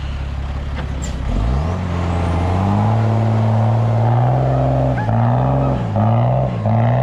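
Mercedes-Benz Unimog truck's diesel engine revving. Its pitch climbs about a second and a half in and holds high, then dips and rises several times near the end.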